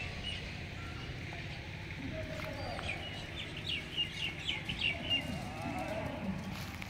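A bird calling a quick run of short, high chirps, about eight in two seconds, starting about three seconds in, over a steady low rumble.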